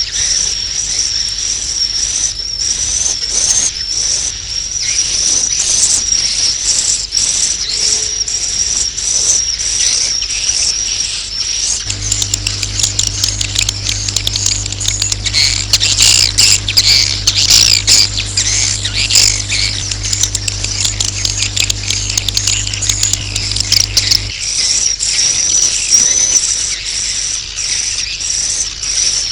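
Dense, continuous high twittering of swiftlets: a recorded 'inap' (roosting) call of the kind played in swiftlet houses to draw the birds in to roost. A low steady hum comes in underneath near the middle and stops a few seconds before the end.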